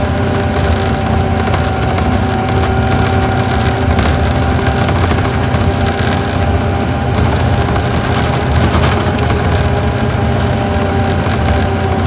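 Isuzu Gala coach's V engine running at a steady pitch while cruising, heard inside the passenger cabin over road noise, with light clicks and rattles.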